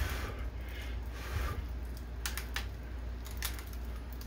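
A person chewing crispy oven-roasted pork right up against the microphone: soft wet mouth sounds at first, then sharp crunching clicks from about two seconds in.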